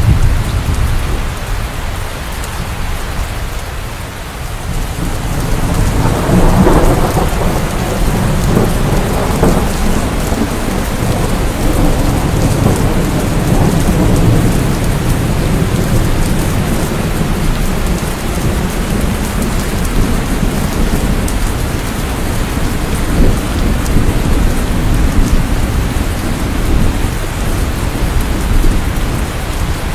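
Steady rain with rolling thunder: a low rumble fades over the first few seconds, then a new peal swells about six seconds in and keeps rumbling under the rain.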